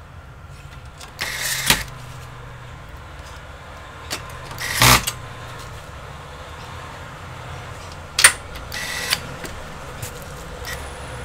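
Hands handling computer parts and tools on a workbench: a few separate clicks and knocks, with a hard knock about five seconds in and another a little past eight seconds, over a steady low hum.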